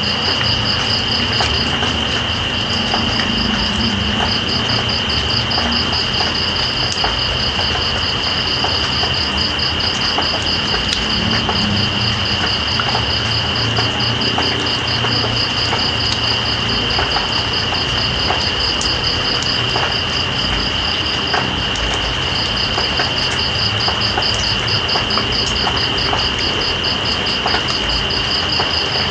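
Night insects, crickets or katydids, calling over steady rain. One high continuous trill runs throughout, and a faster pulsing trill above it breaks off briefly twice. Under them is an even hiss of rainfall with scattered drip ticks.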